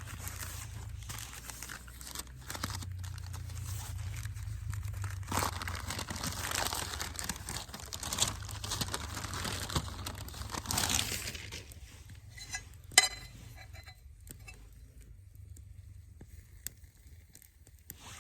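Crinkling and rustling of crinkly material being handled and crumpled for about twelve seconds, then one sharp click about thirteen seconds in, and quieter handling after that.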